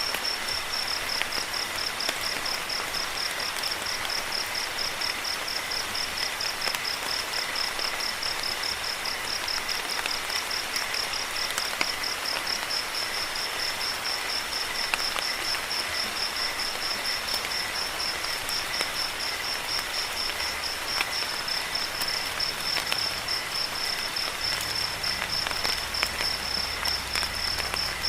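Crickets chirping in a steady, fast-pulsing high trill over the even hiss of falling rain, with scattered small drip ticks.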